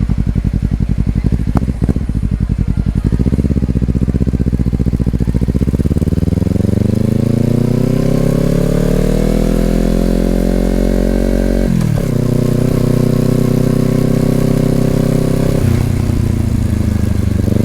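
Honda CBR250RR's parallel-twin engine through an Over Racing aftermarket exhaust. It runs at low revs for about three seconds, then pulls with the pitch rising steadily for about eight seconds. The pitch falls sharply at an upshift, holds steady, and drops again near the end.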